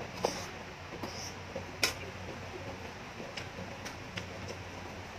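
A mouthful of noodles being chewed with scattered soft wet clicks and smacks, the sharpest about two seconds in, over a steady low hum.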